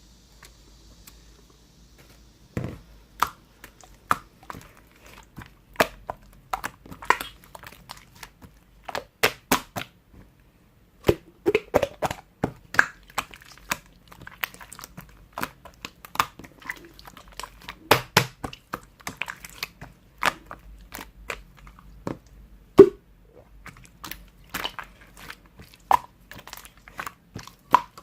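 Handmade slime being squished and poked by hand, giving a dense, irregular run of sticky clicks and pops.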